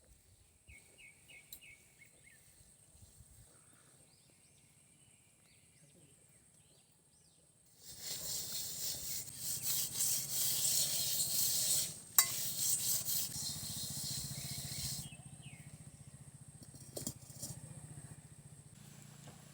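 Rough rubbing and scraping for about seven seconds in the middle, with one sharp knock partway through; a few faint bird chirps are heard before it.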